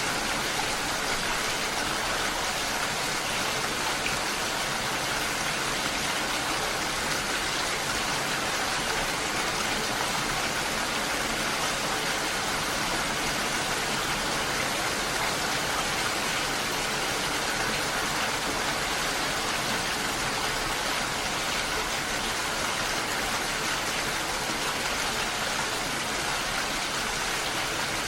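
Steady, unbroken rushing of water, an even hiss with no separate drops or splashes standing out.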